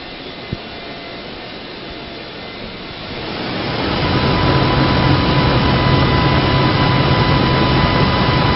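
2007 Dodge Dakota's 4.7-litre V8 running: steady at first, then about three seconds in it is revved up over about a second and held at a steady, higher engine speed.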